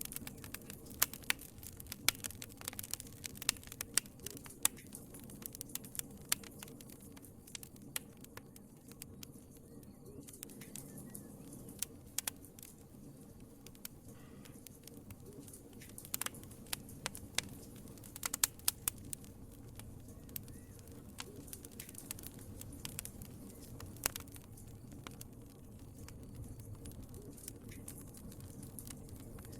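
Wood fire crackling in a fireplace: a steady low rumble of burning logs under many irregular sharp pops and snaps, some in quick clusters.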